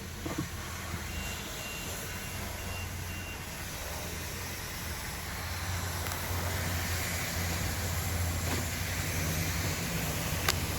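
Vehicle engine running steadily, a low hum with a hiss over it. A short string of high-pitched beeps sounds about a second in.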